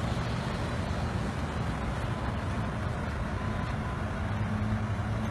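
A vehicle's engine running with a steady low hum under a continuous rushing noise.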